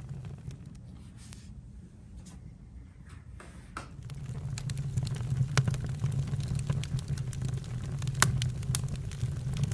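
Campfire burning: scattered sharp crackles and pops over a steady low rumble of flame. It is quieter and duller for the first few seconds, then swells back with busier crackling about four seconds in.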